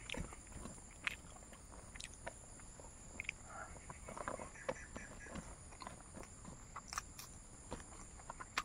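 A person chewing food close to the microphone, with soft smacks and small clicks at irregular moments and a sharper click near the end.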